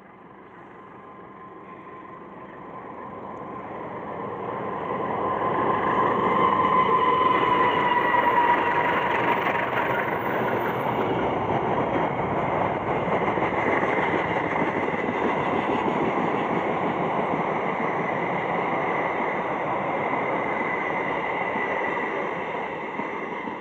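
Diesel-hauled passenger train passing close by. The sound grows louder over the first six seconds as the train nears, and a tone drops in pitch as the front goes by. Then the coaches roll past with a steady rolling-wheel noise that begins to fade near the end.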